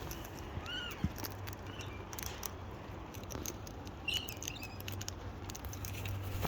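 Light, scattered tapping and pattering of birds' beaks and feet on a hard surface as they feed, with a couple of short faint chirps, one near the start and one about four seconds in.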